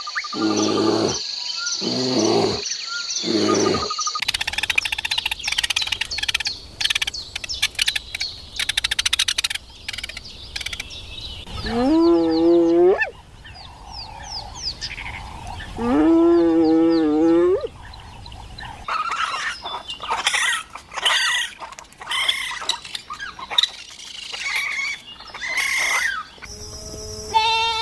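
A run of farm animal calls one after another: chirping and twittering, and two long, wavering pitched calls about twelve and sixteen seconds in.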